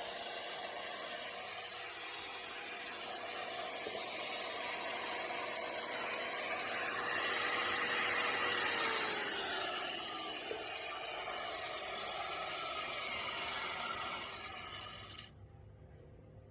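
A motorised rock saw running and grinding through stone with a steady hiss of spray, its pitch sagging midway as it works under load, then cutting off suddenly near the end.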